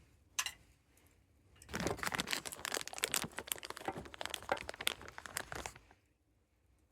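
Campfire crackling: one sharp pop, then about four seconds of dense crackling and popping that dies back down.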